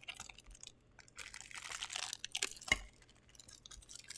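Packaging being handled during an unboxing: crinkling and rustling in irregular bursts, with a sharp click about two and a half seconds in.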